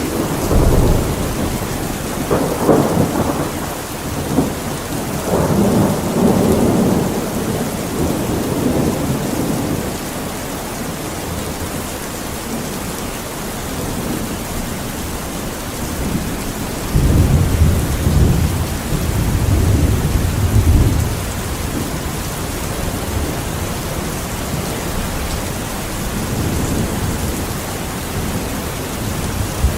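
Steady rain with thunder rolling twice: a long rumble in the first several seconds and another a little past the middle.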